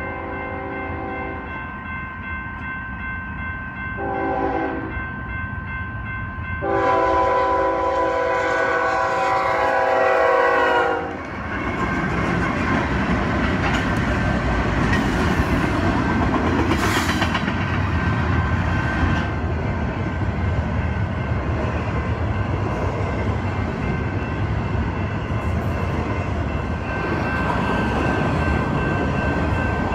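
Diesel freight locomotive's multi-chime air horn sounding the grade-crossing signal: the end of a long blast, a short blast, then a long blast. About eleven seconds in, this gives way to the steady rumble and wheel clatter of a double-stack container freight train rolling past.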